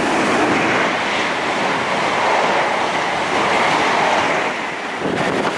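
A train passing close by at speed: a steady, loud rush of wheel and rail noise.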